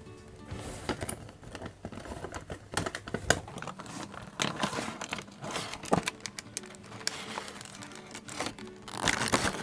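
Clear plastic packaging shell crinkling in irregular sharp snaps as it is gripped and slid out of a cardboard box, loudest near the end, over soft background music.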